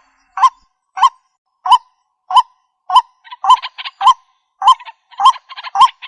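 White-breasted waterhen calling: a short note repeated about every 0.6 seconds, about ten times, with rough chattering notes joining in between them from about halfway through.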